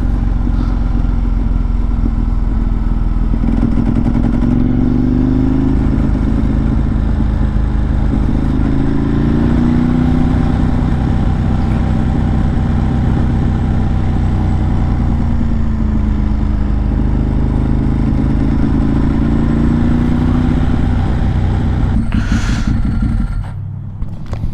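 Ducati 1098's L-twin engine running while the bike is ridden, its pitch rising and falling several times with throttle and speed, over a steady wind rumble. Near the end the sound drops away sharply.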